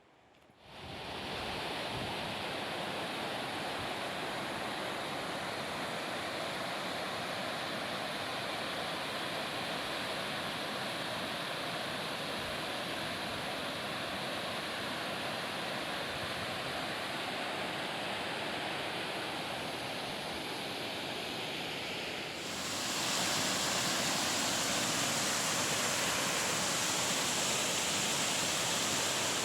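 A mountain waterfall's rushing water, a steady noise that sets in about half a second in and turns louder and brighter about 22 seconds in.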